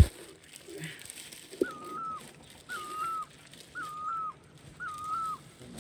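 A bird repeating the same short whistled note about once a second, five times, with a thump at the start and a knock about one and a half seconds in.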